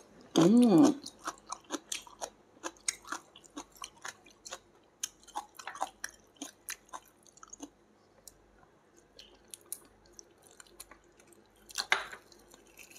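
A person chewing steamed chicken and scallions: many small mouth clicks for several seconds that thin out and grow quieter, with a short voiced sound about half a second in and a louder bite near the end.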